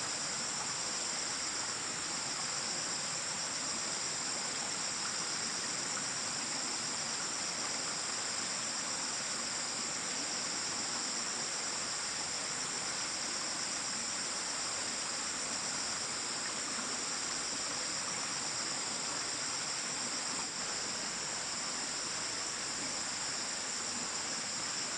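Steady, high-pitched chorus of insects trilling without a break, over an even background hiss.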